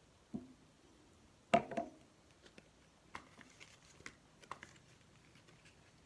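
Paper-craft handling noises: paper rustling and small clicks as a paper piece is pressed and stuck onto a paper plate, with one louder knock about a second and a half in.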